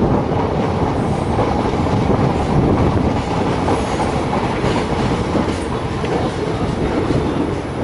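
DEMU (diesel-electric multiple unit) train running along the line: a steady, loud rumble of wheels on the rails with some clickety-clack.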